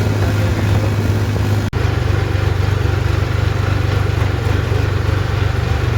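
Tractor diesel engine running steadily with a low drone, broken by a brief dropout a little under two seconds in.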